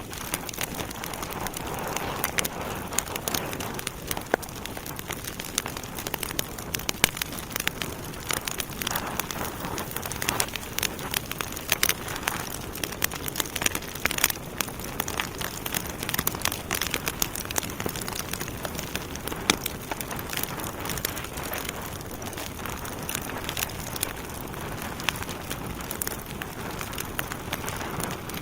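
Wood fire in a fireplace burning steadily with a continuous hiss and many sharp, irregular crackles and pops from the logs.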